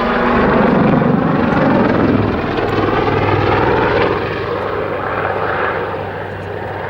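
Army Air Corps Westland Lynx twin-turbine helicopter flying a backflip manoeuvre: loud rotor and turbine roar, strongest in the first two seconds and growing fainter toward the end.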